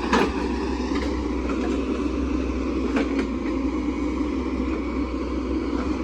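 Hydraulic excavator's diesel engine running steadily, with a few short knocks about three seconds in and right at the start.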